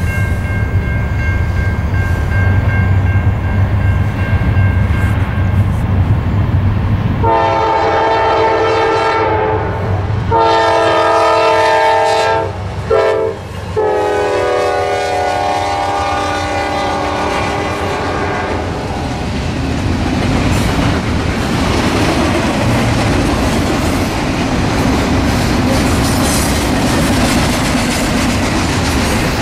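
Norfolk Southern freight train led by GE C40-9W locomotives: a low rumble as the engines approach, then the horn sounding the grade-crossing signal (long, long, short, long), the last blast held several seconds as the locomotives pass. After that, the steady rumble and wheel clatter of intermodal cars rolling by.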